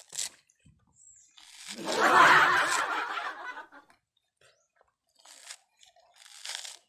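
A burst of laughter lasting about two seconds, the loudest sound here. Near the end, faint short tearing and crunching sounds as coconut husk fibres are ripped off with the teeth.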